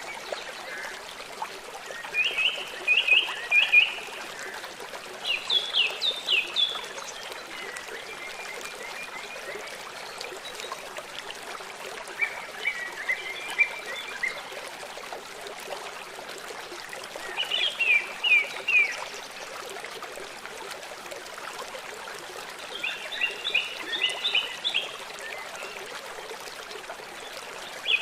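A songbird repeating short phrases of a few quick, clear notes every few seconds over the steady rush of a stream.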